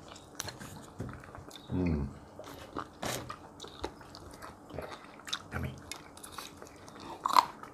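People chewing and biting food at a table, with many small crunches and light clicks of dishes and utensils. A brief murmur comes about two seconds in and another a little past five seconds.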